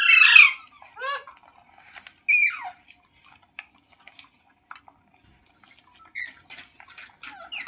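Ringneck parrot squawking: a loud harsh call at the start, another about a second in and a falling call about two and a half seconds in, with fainter calls near the end and scattered light clicks between.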